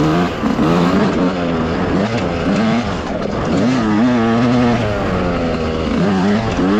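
Dirt bike engine revving under riding load, its pitch rising and falling repeatedly as the throttle is opened and closed, climbing to a held high note around the middle.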